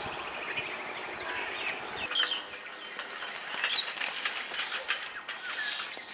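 Birds chirping and calling in short notes, with a run of sharp clicks from about two seconds in; the distant approaching electric train is not yet heard.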